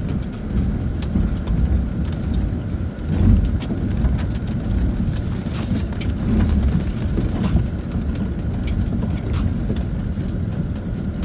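Land Rover Discovery 4 heard from inside the cabin, crawling over a rough, wet off-road track: a steady low rumble from the drivetrain and tyres, with frequent small knocks and clicks from the body and suspension, and a brief hiss about halfway through.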